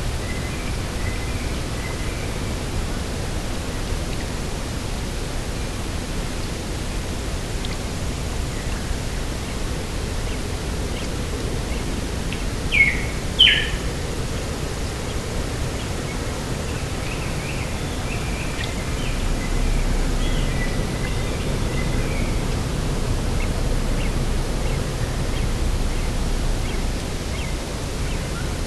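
Steady outdoor rush of wind and sea, with small birds chirping faintly and intermittently. About thirteen seconds in, a bird gives two short, loud calls that each drop sharply in pitch.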